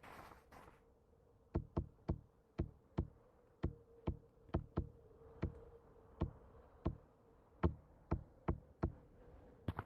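A series of sharp, short knocks or taps, starting about a second and a half in and coming at an uneven pace of roughly two a second, over a faint steady hum.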